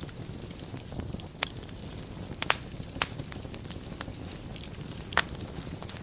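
Wood fire burning in a fireplace, with a steady low rumble and hiss and sharp crackles and pops at irregular moments, loudest about 2.5 s and 5 s in.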